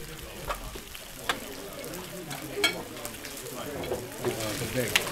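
Food frying with a steady sizzle, broken by a few sharp clicks, with faint voices murmuring underneath.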